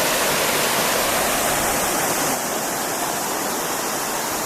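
Waterfall: a steady, dense rush of falling water that drops a little in level about halfway through.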